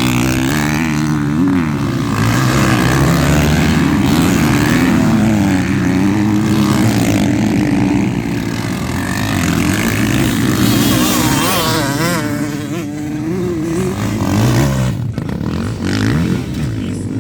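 Several motocross bikes' engines revving on the track, their pitch rising and falling as the riders work the throttles, with overlapping engines at different pitches.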